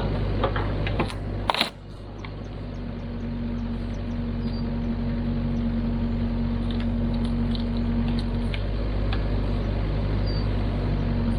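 Kubota KX121-3 mini excavator's diesel engine running steadily, with scattered light clanks and one sharp knock about a second and a half in.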